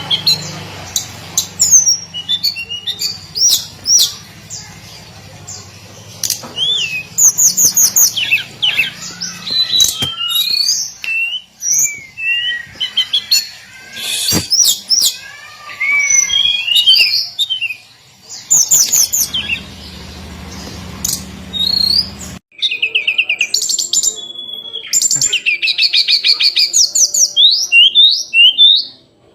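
Hill blue flycatcher singing a long, varied stream of high whistles, sliding notes and fast trills, phrase after phrase with short gaps. A low background hum stops abruptly about two-thirds of the way through.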